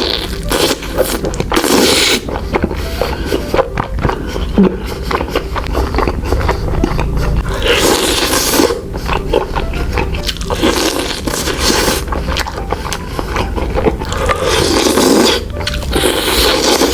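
Close-up eating sounds: biting into and chewing a jumbo telur gulung, a rolled fried egg on a skewer. The noise comes and goes in irregular spells with many small clicks.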